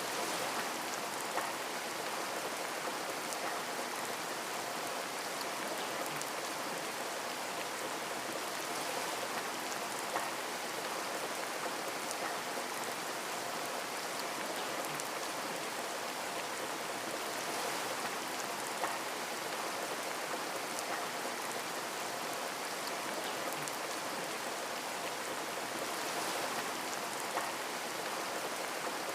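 Steady rain with scattered drops tapping on a window pane, a few slightly louder drops now and then.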